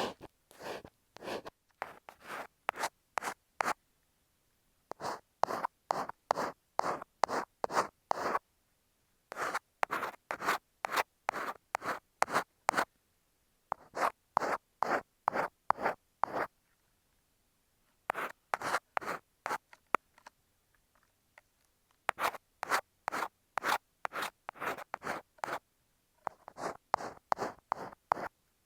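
Ear pick scraping inside an earphone microphone, ear-cleaning style: runs of quick scratchy strokes, about three a second, broken by short pauses.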